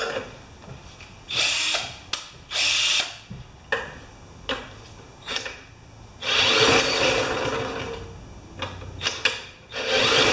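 Power drill spinning over a Honda HRA214 lawn mower engine to try to start it: two short bursts, then one longer run of about three seconds, with sharp clicks in between. The engine is not firing.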